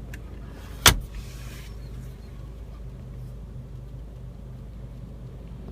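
A glove box latch clicks once, sharply, about a second in, followed by a brief hiss, over a steady low hum in the car's cabin.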